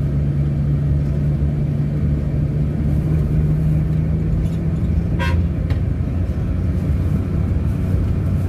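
Road vehicle engine running steadily at speed, with a brief horn toot about five seconds in.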